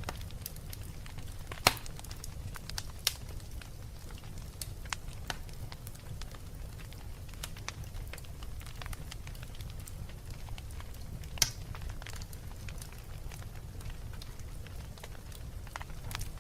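Wood fire burning in a fireplace, crackling with scattered small snaps over a low steady rumble; two sharp, loud pops stand out, about two seconds in and again about eleven seconds in.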